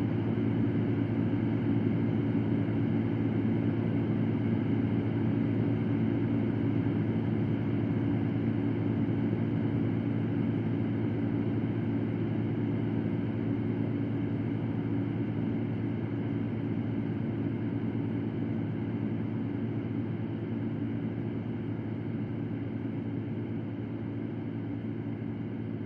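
Electric fan running: a steady rush of air with a low steady hum, slowly getting quieter.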